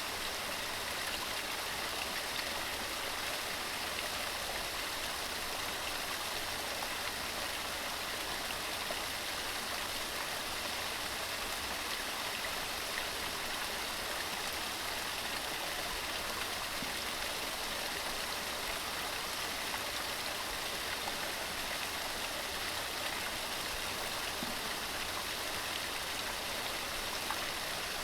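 Waterfall: water tumbling over rocks in a steady, even rush that does not change.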